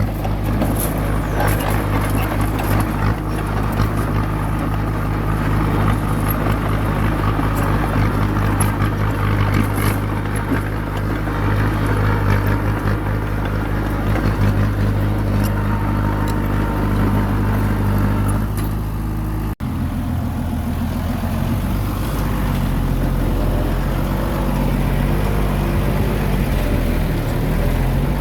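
Small crawler bulldozer's diesel engine running steadily under load, with light clanking over it. After an abrupt cut about two-thirds through, the engine note rises and falls as the machine works.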